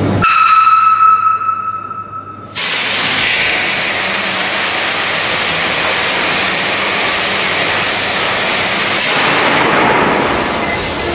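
A single steady high-pitched tone that fades away over about two seconds, then a loud, steady hiss that starts suddenly and runs on evenly.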